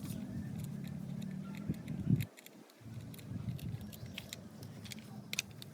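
Scattered small clicks and scrapes as a plastic toy cement mixer truck is handled and screwed together with a small screwdriver, over a low background hum.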